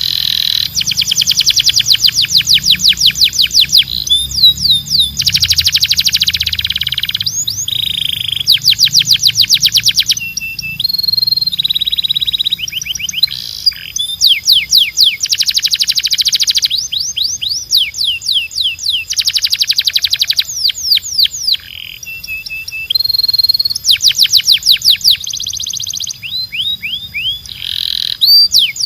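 Male canary singing a long song of rapid trills, each phrase a fast run of repeated high notes that changes every second or two, mixed with short held whistles and rolls.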